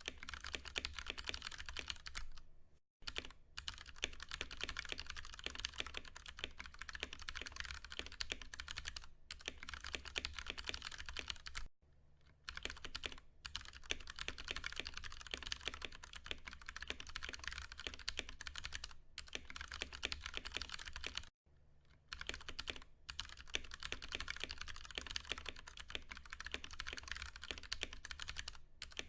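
Fast, continuous typing on a Ducky One 2 Mini mechanical keyboard with Cherry MX Brown tactile switches: a dense stream of key presses, broken by three brief pauses.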